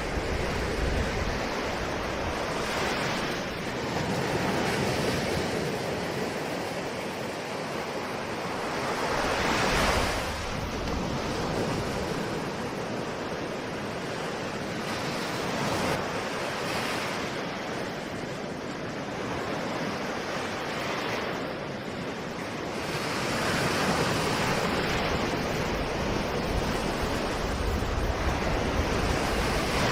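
Ocean surf: a continuous wash of waves breaking on a shore, swelling and easing every few seconds, with the loudest wave about ten seconds in.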